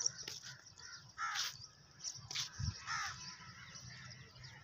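Birds calling: three short calls about a second apart, fairly faint.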